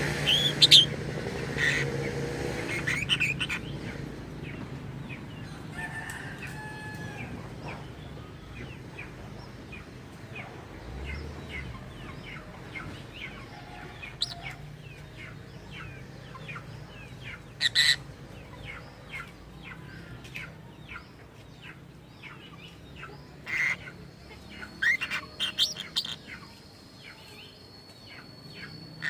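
Lovebird chirping: many short, sharp chirps with a few louder shrill calls scattered through, over a low steady hum in the first few seconds.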